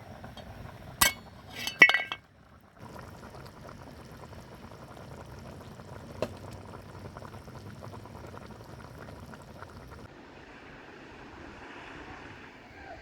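Two sharp clinks about a second in and just before two seconds, the second one louder and ringing like glass or dishware. Then comes a steady low background with a single light tap around six seconds in.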